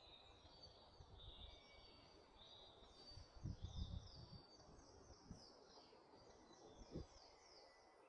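Faint woodland birdsong from several birds at once: many short, quick falling notes overlapping throughout. A few low thuds sound around the middle and once near the end.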